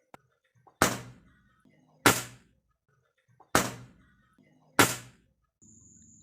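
Airgun fired four times, about a second and a half apart, each shot a sharp crack that dies away quickly. Near the end a faint steady hum with a thin high tone comes in.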